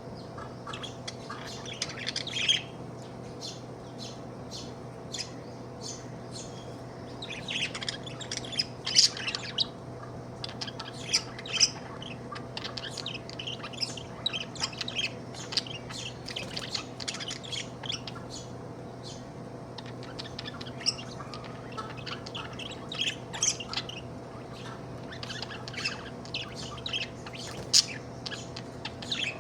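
Budgerigar (pet budgie) chirping and warbling in quick bursts of short high notes with occasional sharp squawks, over a steady low hum.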